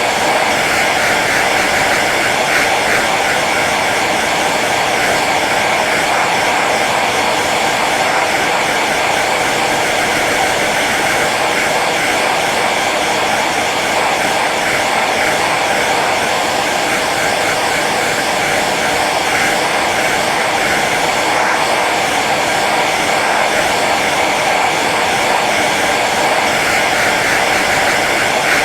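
Hair dryer running steadily on its low setting, an even rush of blown air and motor noise with no change in pitch or level.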